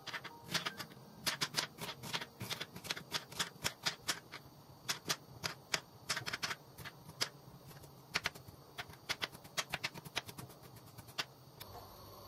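A run of sharp, irregular clicks or taps, several a second, that stops near the end.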